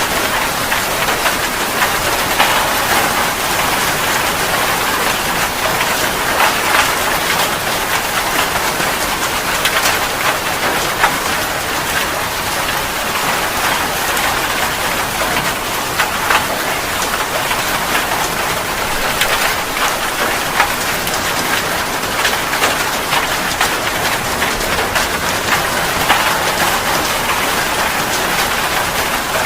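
Steady rain falling on a surface: a constant dense hiss with many individual drops ticking through it.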